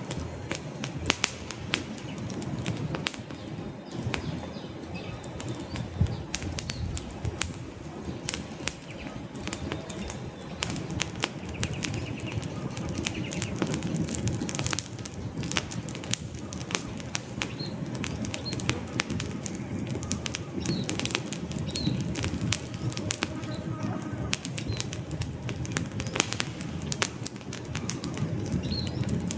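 Wood fire burning in a fireplace: irregular sharp crackles and pops over a low steady rumble of the flames, with a few faint short high chirps in the second half.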